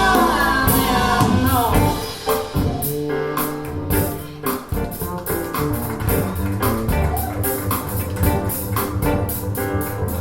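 Recorded music played through a pair of Bowers & Wilkins 607 bookshelf speakers: a sung vocal line trails off in the first two seconds, then guitar, bass and drums carry on with a steady beat.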